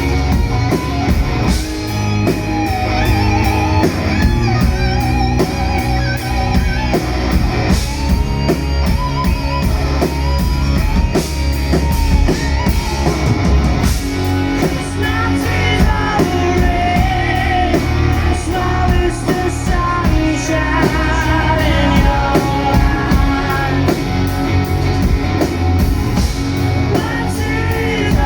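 Rock band playing live: electric guitar and drum kit with a singing voice, the melody held in long wavering notes over a heavy bass and drum beat.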